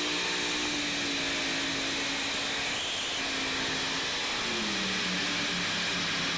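Pulling vehicle's engine run hard under load during a pull, a loud steady drone whose pitch drops about four to five seconds in. It cuts off abruptly at the end.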